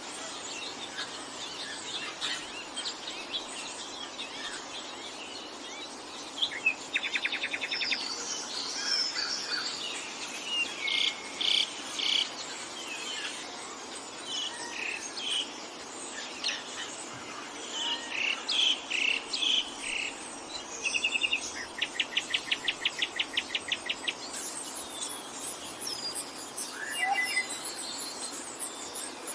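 Several forest birds calling and singing over a steady background hum of insects, with a rapid trill about seven seconds in and a longer rapid trill about twenty-two seconds in.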